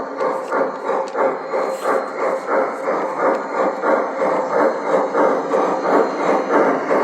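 Model steam locomotive's onboard sound system playing a rhythmic steam chuff through its small speaker, about two beats a second, growing a little louder as the train runs.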